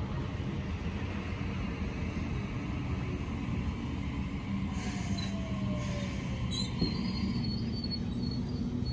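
Passenger train running through a station: a steady rumble with low humming tones, a falling whine midway, and brief high-pitched wheel squeals and hisses in the second half.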